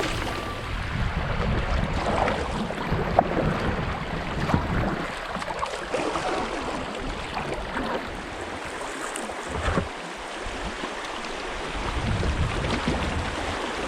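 River water rushing and splashing around a kayak, with short splashes throughout. A low wind rumble buffets the action-camera microphone at the start and again near the end.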